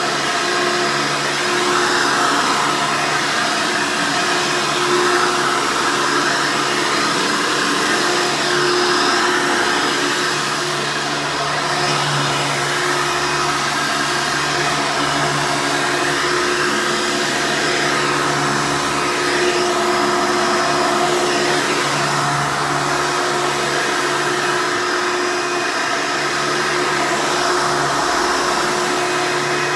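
Hoover Elite vacuum cleaner running steadily and loud: a motor whine over rushing air, its tone shifting a little now and then.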